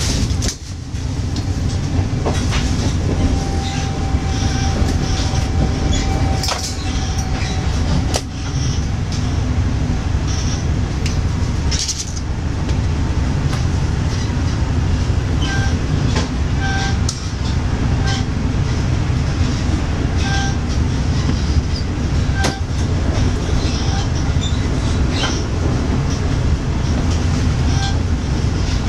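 Interior running noise of a State Railway of Thailand sleeper carriage on the move: a steady low rumble of wheels on rail, with scattered sharp clicks and knocks and a few brief faint tones.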